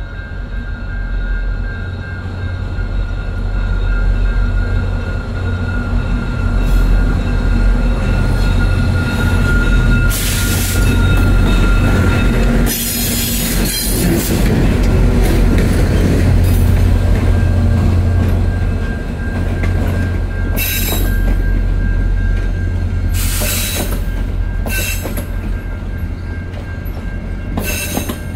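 Two VIA Rail EMD F40PH diesel locomotives passing close by at low speed, their engines running with a steady deep drone that peaks as they go by mid-way, followed by LRC passenger cars rolling past. The steel wheels squeal and screech against the rails in repeated bursts, with a thin steady squeal in the first half.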